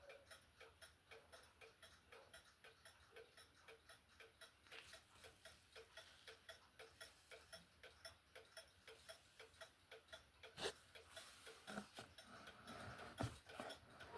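HAC-Junghans wall clock movement ticking evenly after repair, about three ticks a second. Two louder knocks come in the last few seconds.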